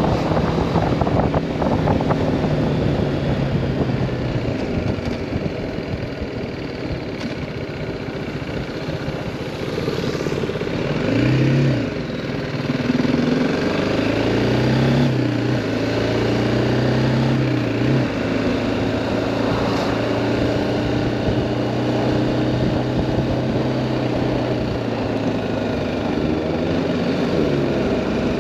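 BMW G310R's single-cylinder engine running in traffic, its note rising and falling with the throttle, with a short rev about eleven seconds in.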